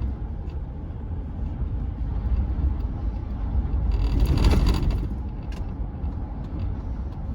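Steady road and engine noise inside a Chevrolet pickup's cab at highway speed. The noise swells to a louder rush about four seconds in, then eases back.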